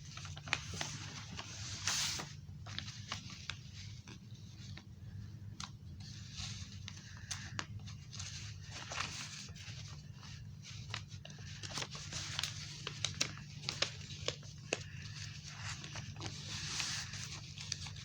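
A sheet of paper being handled, folded and creased: irregular crinkling, rustling and scraping with many short sharp crackles, over a steady low hum.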